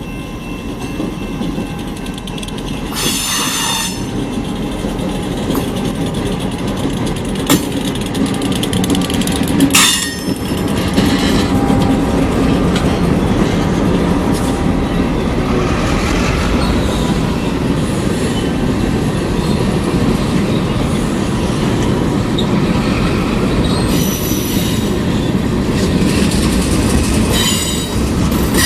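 Train led by an EMD GP38-2 diesel locomotive rolling past, its steady rumble building up over the first several seconds. Steel wheels squeal briefly several times, and rail joints click.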